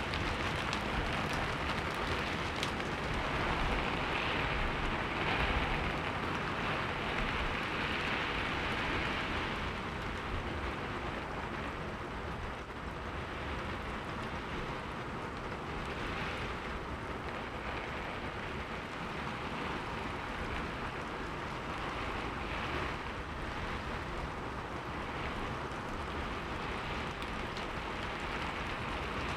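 Heavy rain falling as a steady, dense hiss, a little louder for the first third and then evening out.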